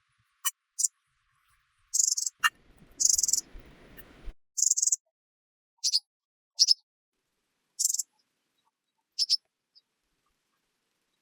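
Bird chirps: about a dozen short, high calls at irregular intervals, with a brief low rustle between about two and a half and four seconds in.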